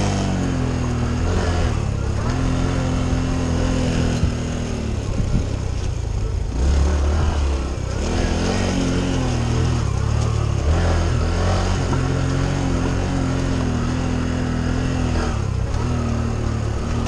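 Honda CT125 Trail 125's single-cylinder engine running under way. Its note holds steady, then dips or breaks off several times as the throttle is eased and gears are changed, over a heavy low rumble.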